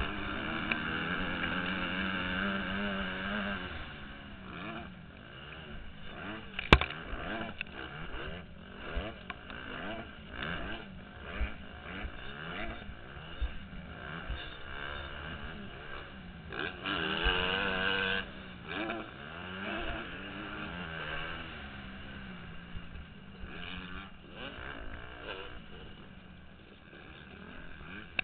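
Motocross dirt bike engine revving up and down as it is ridden hard, heard muffled through a helmet camera. One sharp, loud knock comes about seven seconds in, and smaller knocks are scattered throughout.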